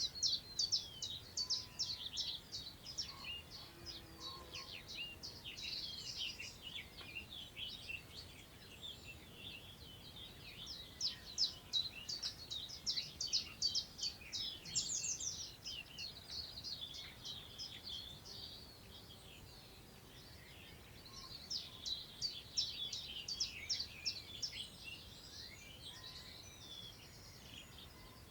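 Songbird singing in three long phrases of rapid, high, chirping notes, each several seconds long with short pauses between, over a faint steady hiss of wind moving through long grass.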